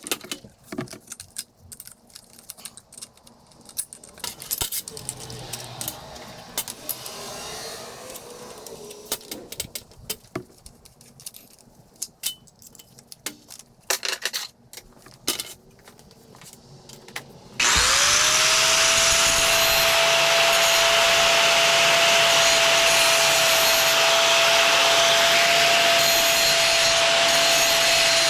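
Scattered clicks and knocks of steel pieces and tools being handled. Then, a bit more than halfway through, an angle grinder starts up: a quick rising whine that settles into a steady high whine with a broad hiss as it grinds the cut steel plate.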